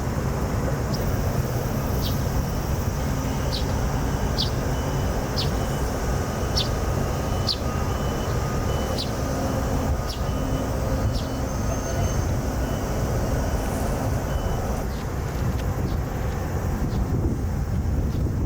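Steady low outdoor rumble, like traffic or wind, with a string of short high chirps about once a second through most of it.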